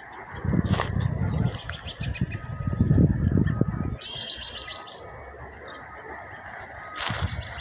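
Small birds chirping, with a high rapid trill about four seconds in. A loud low rumble runs through the first half.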